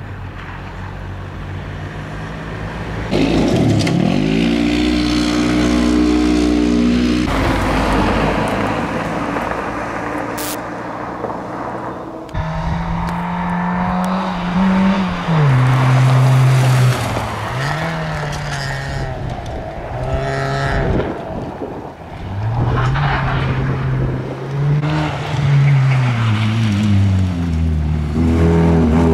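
Rally reconnaissance cars driving past one after another, engines revving up and falling back as they change gear. The sound changes abruptly several times as one pass gives way to the next.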